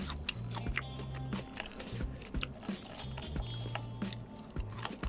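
Chewing and crunching of crispy fried chicken close to the microphone, a string of short sharp crunches over background music with held low bass notes.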